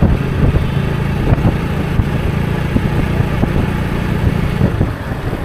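Motorcycle engine running steadily as the bike rides along a road, with wind and road noise.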